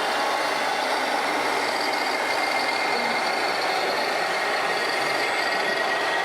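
Radio-controlled scale trucks and construction models running, a steady engine-like drone with a faint high whine.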